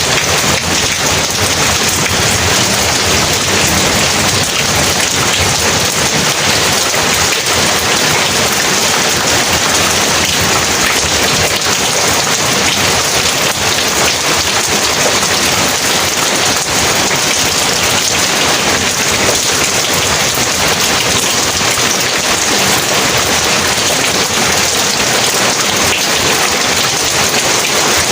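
Heavy rain pouring steadily, a dense, even hiss of many drops striking surfaces, with no distinct thunderclap.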